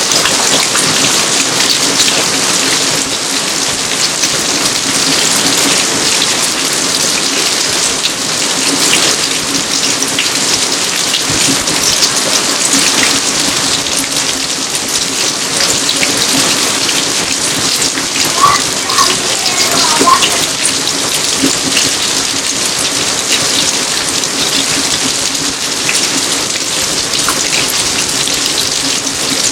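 Steady rain falling on a garden, countless drops hitting surfaces in an even wash of sound, with a few brief louder splashes about two-thirds of the way through.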